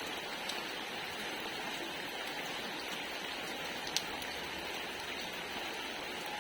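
Steady rain falling, an even hiss with a few sharper drop hits, the clearest about four seconds in.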